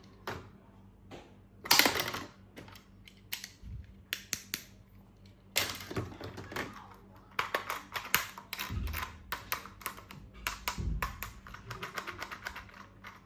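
Plastic toys and packaging being handled during an unboxing: scattered sharp clicks and taps with brief spells of rustling, and a couple of dull thumps in the second half.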